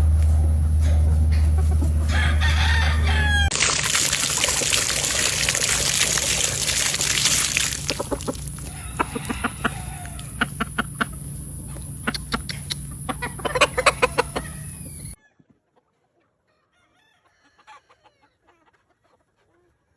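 Gamefowl roosters (Gavilan Asil and Grey Kelso) crowing, with chickens clucking in quick, sharp calls, over a steady low hum and hiss. The sound cuts off suddenly about fifteen seconds in, leaving only a few faint sounds.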